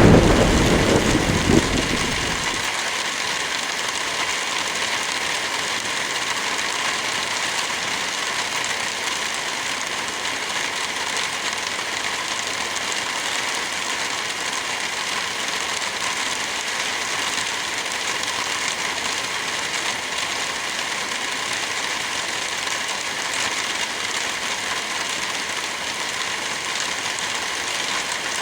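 Heavy rain falling steadily. A roll of thunder rumbles at the start and dies away within the first two or three seconds.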